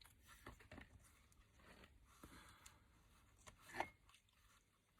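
Faint rustling and handling of craft paper, with one sharper click about four seconds in.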